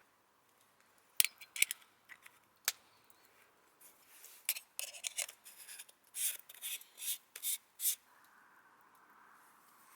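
Close-up handling of a lens filter and its case: a few sharp plastic clicks, then a couple of seconds later a quick run of short scraping and rubbing sounds that stops about two seconds before the end.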